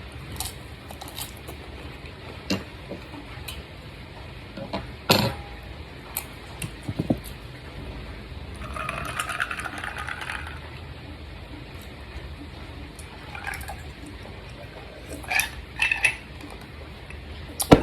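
Scattered clinks and knocks of utensils against dishes, the loudest about five seconds in and just before the end, with a hissing, rustling stretch about two seconds long near the middle.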